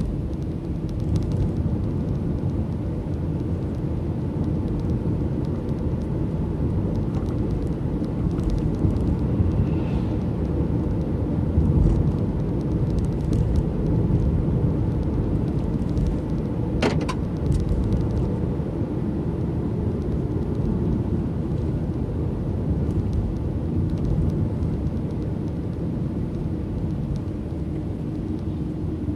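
Steady low rumble of a car's engine and tyres on the road, heard from inside the moving car, with a single sharp click a little past halfway.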